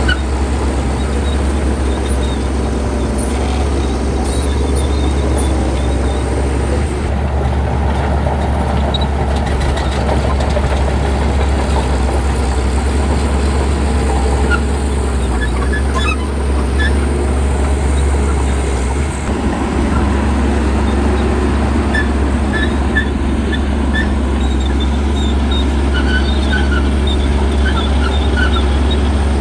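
Bulldozer's heavy diesel engine running steadily with a deep drone, with short high clinks scattered through.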